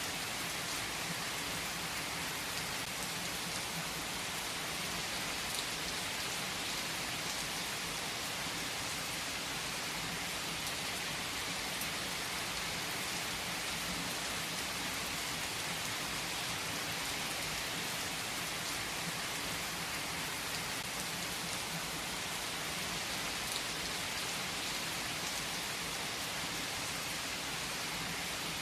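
Steady rain: an even hiss of rain on surfaces, with an occasional louder drop.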